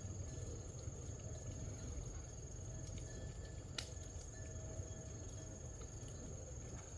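Outdoor ambience with a steady high-pitched insect trill, over a low rumble, with one sharp click about four seconds in.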